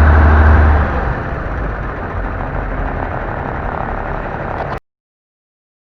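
Large truck's diesel engine idling, its strong steady low hum dropping away about a second in and leaving a rougher, quieter rumble, which cuts off suddenly near the end.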